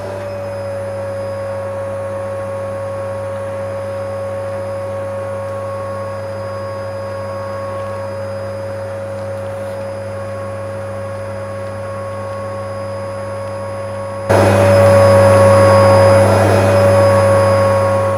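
Vacuum cleaner running with a steady hum and a constant whine. About fourteen seconds in it suddenly gets louder, then starts to die away at the very end.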